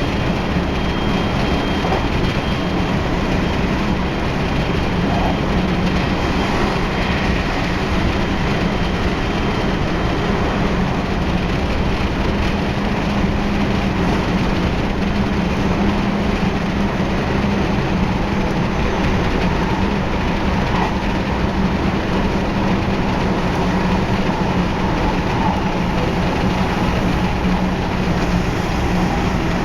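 JR West 223 series 0 electric train running at a steady speed, heard on board: an even rumble of wheels on rail with a steady low hum. There is no rising or falling inverter whine.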